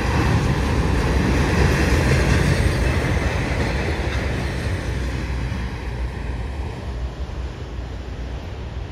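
Train rolling along the rails, a dense rumble with rail noise that grows steadily fainter over the second half.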